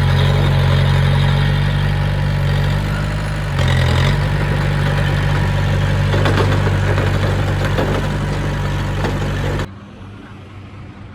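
Heavy diesel earthmoving machine's engine running steadily, with a brief change in its note about three and a half seconds in. The engine sound cuts off abruptly near the end, leaving a much quieter background.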